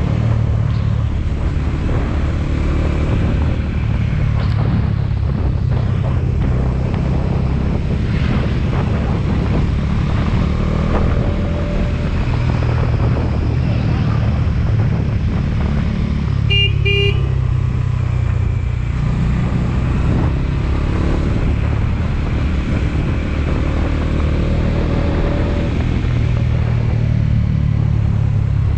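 Motorcycle engine running steadily on the move, with road and wind noise. About two-thirds of the way through, a vehicle horn beeps twice in quick succession.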